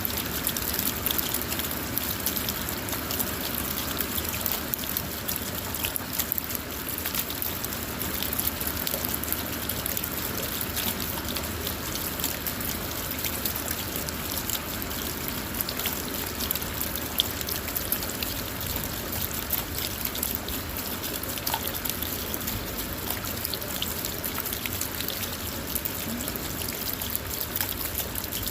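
Steady rain falling on a car, heard from inside, with a constant even hiss and many small drop ticks.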